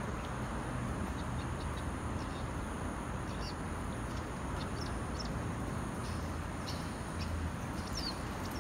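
Small birds chirping in short, scattered high calls, a couple of them sliding downward near the end, over a steady low rumble.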